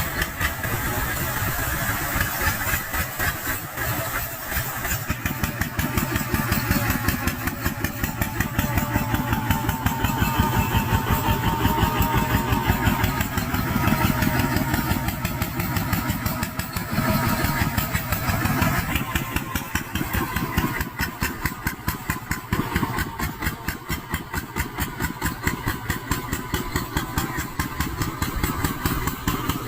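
Small Kubota tractor's diesel engine running with a rapid, even chugging beat.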